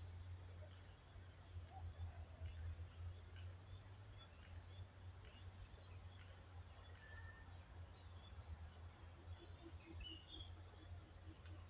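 Faint, scattered bird chirps over a steady low hum, with a short run of quick low notes near the end.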